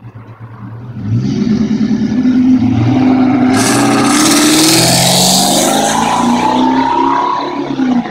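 New Edge Mustang GT's 4.6-litre V8 accelerating hard through an off-road X-pipe and Pypes Violator exhaust on stock headers. The revs climb and the exhaust gets very loud from about a second in, easing off near the end.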